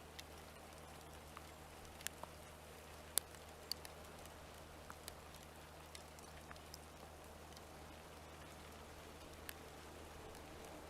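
Light rain: scattered sharp drips ticking irregularly over a faint steady hiss, with a low steady hum underneath.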